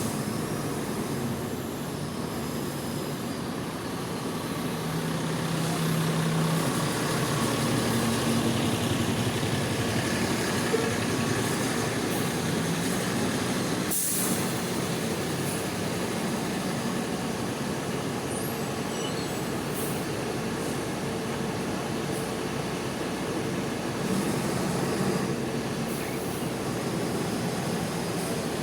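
Large diesel buses running and idling, with engine hum swelling between about 5 and 10 seconds in, under a steady hiss of rain. There is one short sharp hiss about halfway through.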